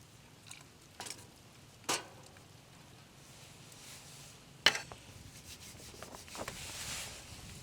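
A few separate light knocks and scrapes, with the sharpest knock a little past halfway, then a stretch of soft rubbing and rustling near the end.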